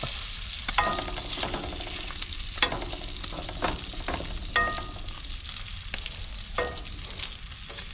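Bacon sizzling and frying in a pan, with several sharp metal clinks and short rings as a utensil knocks against the pan.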